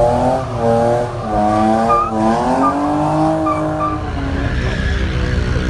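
Car engine revving hard in repeated swells, its pitch rising and falling, then settling into a rougher, steadier rumble about four seconds in.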